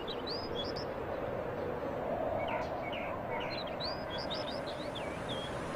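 Small birds chirping in quick short calls over a steady background hiss, the chirps coming in a brief cluster at the start and a longer run from about halfway in.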